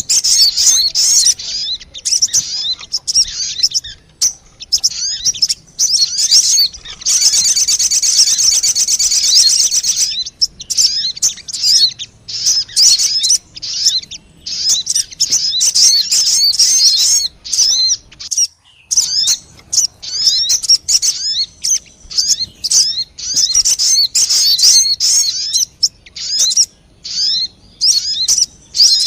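Sogon bird lure call: rapid, high, squeaky chirps and twittering notes in quick succession. A continuous fast trill runs from about seven to ten seconds in.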